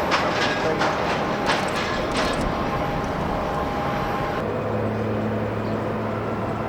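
Jet airliner noise mixed with wind rumble on the microphone, with a few sharp knocks in the first couple of seconds. About four and a half seconds in, the sound changes abruptly to a steady low hum.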